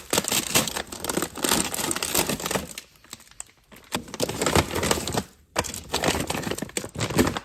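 Plastic food packaging crinkling as it is handled and opened, in several stretches with short pauses.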